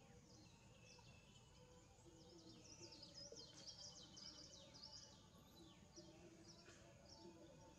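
Faint outdoor ambience with small birds chirping, many quick high chirps and falling notes, busiest a few seconds in.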